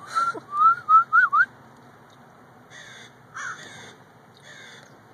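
Birds calling: a quick, loud run of whistled notes sliding up and down in the first second and a half, then three short harsh calls spread over the next two seconds.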